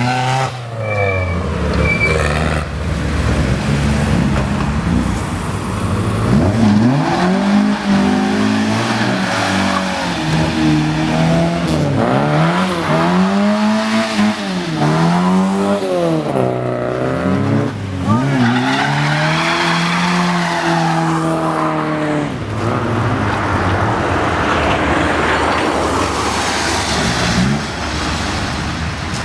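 Classic cars driving through a corner one after another, engines revving up and easing off again and again as each one accelerates past.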